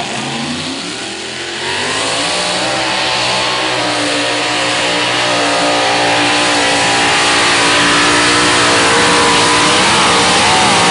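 Mini Unlimited pulling tractor's engine running hard during a pull. The engine note climbs about a second and a half in, then holds high and nearly steady, wavering slightly near the end.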